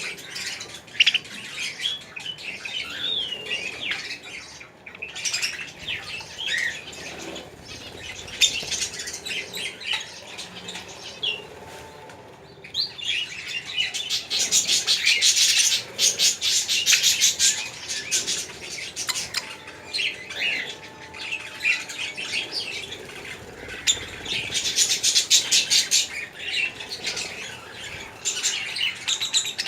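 Small birds chirping and chattering without a break, many short calls overlapping. The chatter grows denser and faster about halfway through and again near the end.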